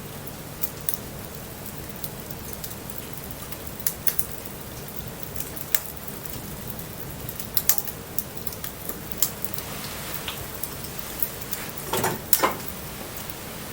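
Wood bonfire crackling, with scattered sharp pops, the loudest two close together about twelve seconds in, over the steady hiss of light rain.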